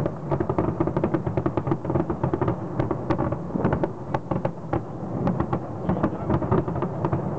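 New Year fireworks display from Taipei 101 going off continuously: rapid, overlapping bangs and crackles over a steady rumble.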